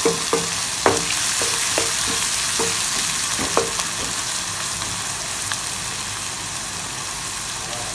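Sliced onions and green chillies sizzling in oil in a nonstick kadai. For the first few seconds a wooden spatula stirs them, knocking against the pan several times, then only the steady sizzle goes on.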